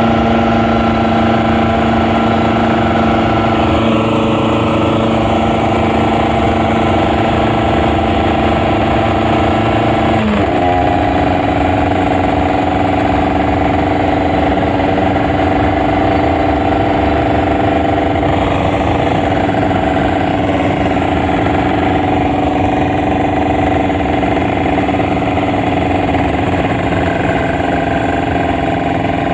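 Kawasaki Ninja RR 150 two-stroke motorcycle engine running at a steady note while riding. About ten seconds in, its pitch briefly dips and then settles at a new steady note.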